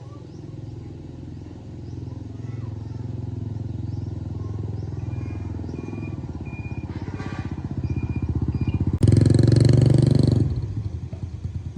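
An engine running with a fast, even pulse that builds up steadily, is revved hard for about a second and a half around nine seconds in, then drops back.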